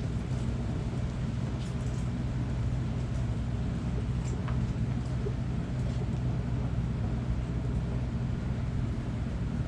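A steady low mechanical hum, with a few faint, short, high chirps over it.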